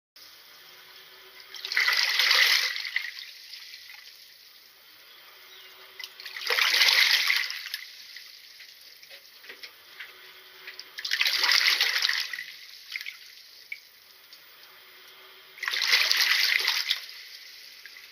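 Water sloshing in a washing machine drum that is soaking in a sodium percarbonate cleaning solution. It comes in four even surges about four to five seconds apart, with a faint trickle between them.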